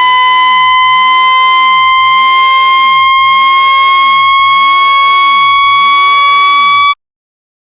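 A loud, buzzy electronic tone of the kind played to shake water and dust out of a phone speaker, slowly rising in pitch, then cutting off suddenly near the end.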